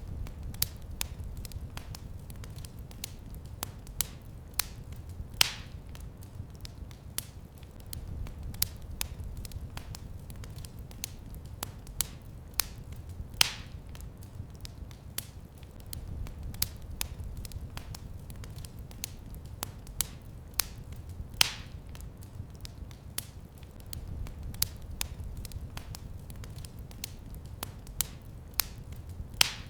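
Fire crackling in a fireplace: a steady low rumble with frequent small snaps and a louder pop about every eight seconds.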